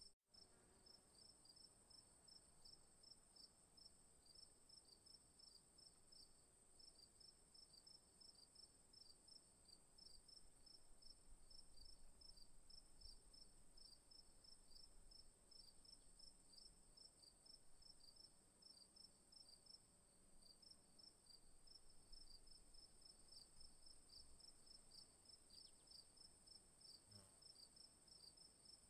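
Crickets chirping in quick, even pulses over a continuous high-pitched insect drone, faint, with a momentary dropout at the very start.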